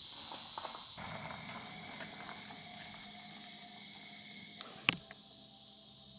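Summer insects in the woods chirring steadily at a high pitch, with one sharp click about three-quarters of the way through.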